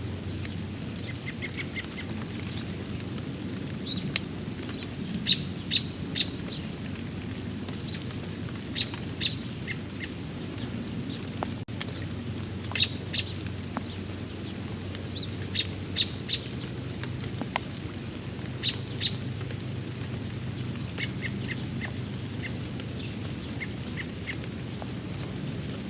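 Birds calling over steady rain, the loudest calls coming in short sharp groups of two or three every few seconds, with a few runs of quicker, softer chirps.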